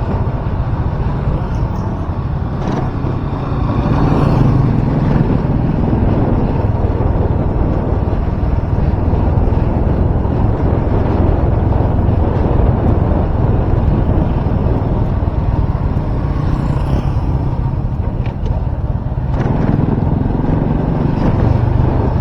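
Loud, steady wind rumble buffeting a microphone that has been wrapped in electrical tape, with vehicle and road noise underneath; it grows louder about four seconds in. The tape wrap has not cured the wind noise.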